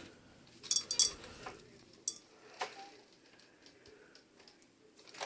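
A few sharp metallic clicks and clinks, a cluster about a second in and single ones about two and two and a half seconds in, from the hugger ceiling fan's pull chain and reverse switch being worked to set it to low in reverse.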